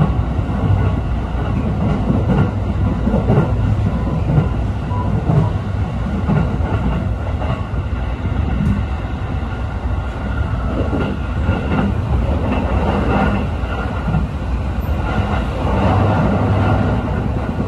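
JR East E531 series electric train running along the line, heard from inside a passenger car: a steady low rumble of wheels on rail that swells and eases unevenly.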